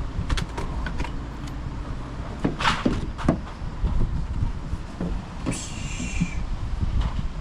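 Knocks and clicks of timber and tools being handled on a deck build, over a steady low rumble. A short high whirring burst comes about three quarters of the way through.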